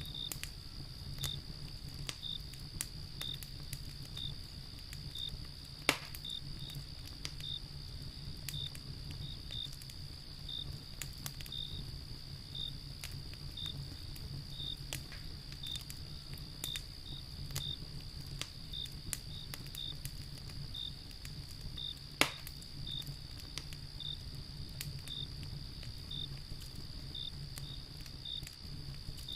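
Wood fire crackling with scattered small snaps and two loud pops, over a low steady rumble. A steady high insect trill and a cricket chirping about once a second run through it.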